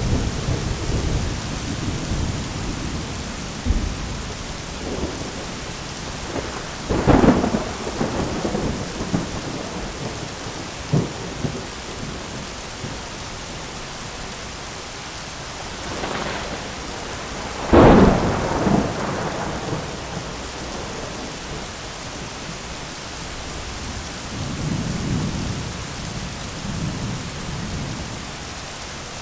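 Thunderstorm: steady heavy rain with rolling thunder. Low rumbles open it, then sharp thunderclaps come about a quarter of the way in and again past the middle, the second the loudest, and a softer low rumble follows near the end.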